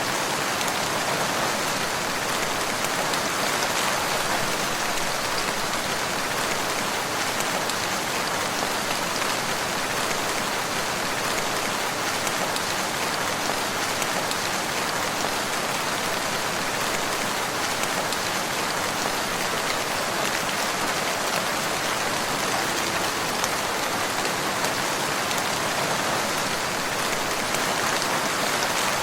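Steady, even rain falling on a surface, a constant hiss with scattered individual drops.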